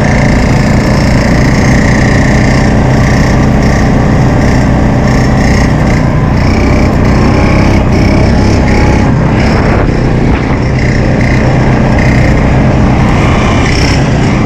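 Honda 350's single-cylinder engine running steadily while being ridden, with a brief drop in loudness about ten seconds in.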